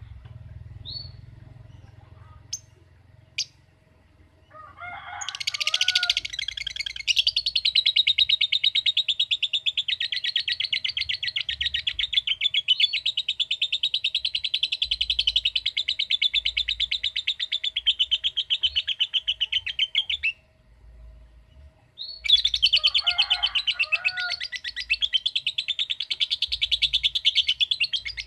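Lovebird giving long, fast ticking chatter trills, the 'ngekek' song. A few short chirps come first, then one trill runs about fifteen seconds, and after a brief pause a second runs about six seconds.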